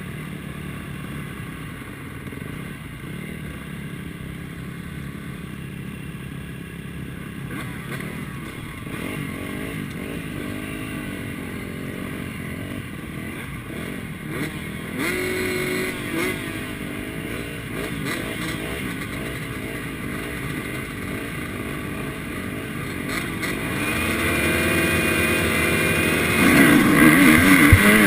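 MX1 motocross bikes' engines revving, several at once, their pitch rising and falling with the throttle; they grow louder over the last few seconds.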